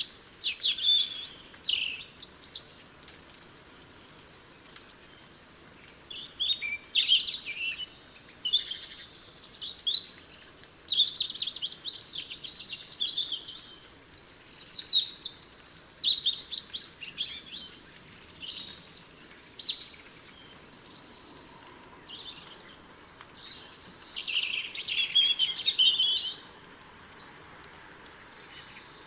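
Several small songbirds chirping and calling, short high calls overlapping almost without pause, with a couple of brief lulls.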